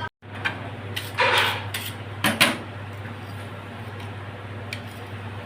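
A few sharp knocks and short scraping clatters over a steady low hum, like something being handled, typical of pots or utensils being moved.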